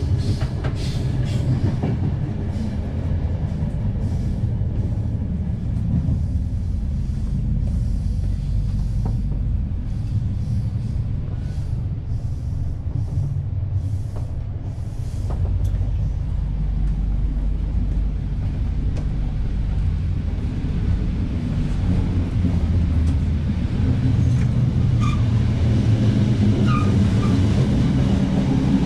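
Rumble of a moving passenger train heard from inside a couchette car: steady running noise of the wheels and car body on the rails, with faint ticks. It grows louder over the last few seconds near the end of the car.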